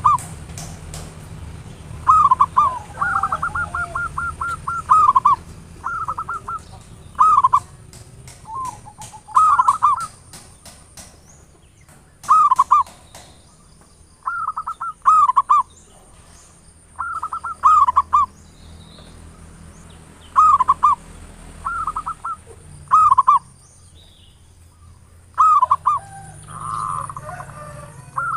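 Zebra dove (perkutut) singing its cooing song: short phrases of quick, rolling coos, repeated every two to three seconds. There is faint ticking between the phrases and a low hum beneath.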